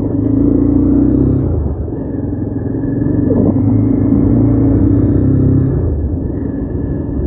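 Motorcycle engine running while riding, louder in two stretches of harder throttle and easing off near the end, with a low rumble.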